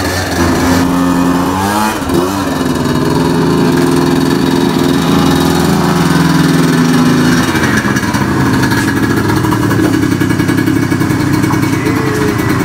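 A motor engine running steadily, its pitch briefly rising and falling about two seconds in.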